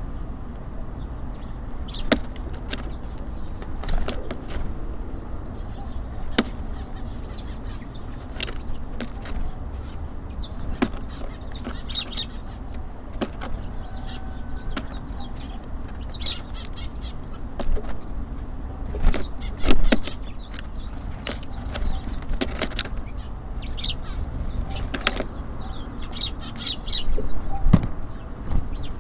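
Small birds at a feeder: wings flapping as they come and go, sharp taps and knocks from landing and pecking, and short high chirps now and then, over a steady low rumble.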